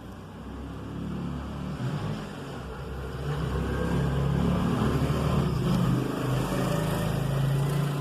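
A motor engine running, a low rumble with a wavering hum that builds up over the first few seconds and then holds.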